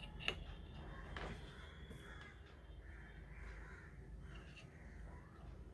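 Crows cawing faintly in the background, with one sharp click about a third of a second in and a couple of lighter clicks after it.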